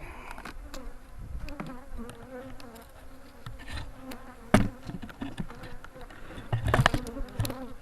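Honeybees buzzing around an opened hive: a steady, wavering hum. It is broken by sharp knocks from the hive being handled, the loudest about halfway through and a quick cluster near the end.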